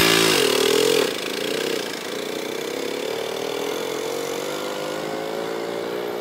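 Mini monkey-bike's small single-cylinder engine running on the road, its note wavering at first and then rising slowly as it speeds up, with a steady rush of wind and road noise.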